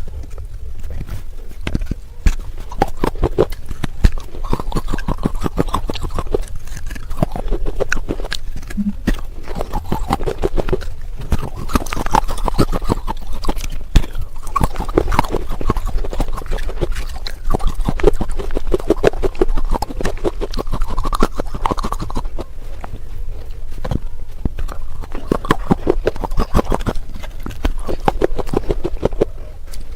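Close-up chewing and crunching of baked red clay pot pieces: a dense run of sharp, crisp cracks in quick, irregular succession.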